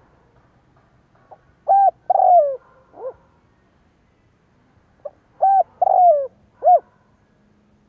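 Spotted dove singing its cooing song, two phrases a few seconds apart. Each phrase is a few short coos and one longer falling coo, ending on a brief low note.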